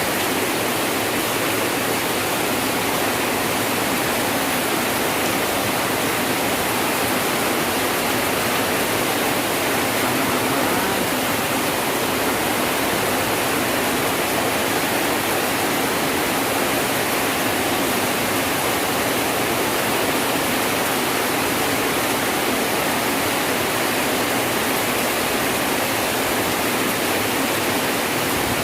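Heavy rain pouring down steadily, a dense, even hiss that holds at one level throughout.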